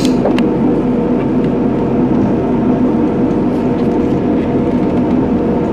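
A train's engine running steadily, a constant droning hum with no change in pitch.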